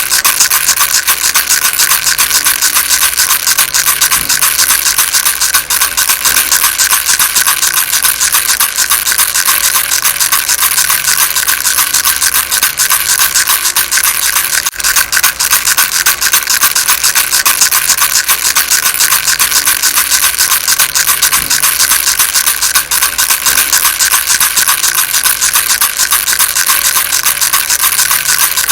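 Baby rattle shaken fast and without pause, a dense, steady rattling with one brief break about halfway.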